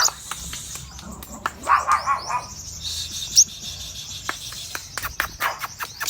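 Albino sogon songbird chirping and twittering in high, quick notes, with a lower warbled phrase about two seconds in. Sharp clicks come in quick succession in the second half.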